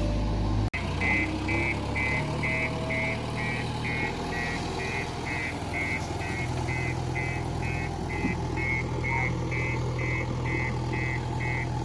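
Diesel engine of a backhoe loader running steadily, with a reversing alarm beeping at about two and a half beeps a second, starting about a second in.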